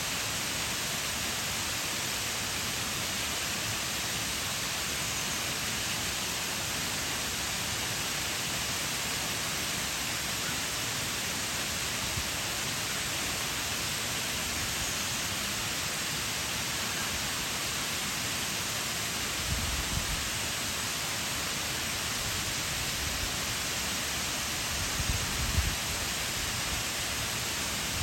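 Shiraito Falls pouring in a steady, dense rush of falling water. A few brief low rumbles come in about two-thirds of the way through and again near the end.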